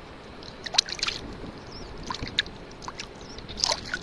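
Water sloshing and splashing, with several short sharp splashes, the loudest about a second in and another near the end.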